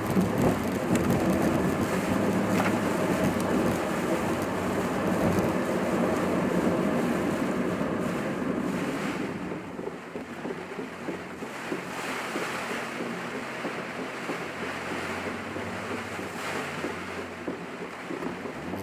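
Steady rushing road and wind noise inside a moving car, with a low engine hum underneath. It eases off slightly about halfway through.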